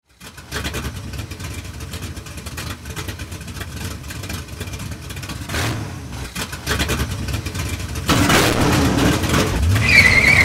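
Car engine running with a low rumble, growing louder after about eight seconds and briefly revving near the end, where a wavering high tone also sounds.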